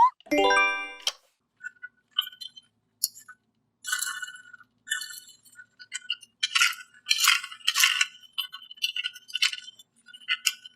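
A cartoon sound effect at the very start: a quick run of rising notes. Then a long series of light, irregular clinking and rattling sounds from small hard objects being handled.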